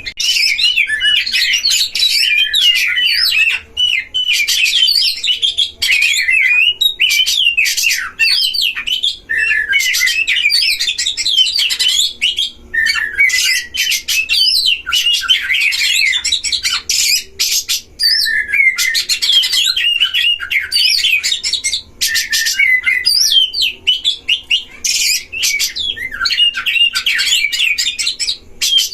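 Oriental magpie-robins (kacer) singing in a dense, continuous stream of fast, varied whistled phrases, with only brief pauses. The song starts abruptly.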